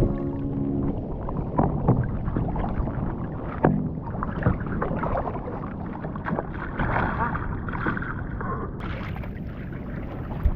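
Wind on the microphone and water slapping against a fishing kayak, with scattered knocks and splashes.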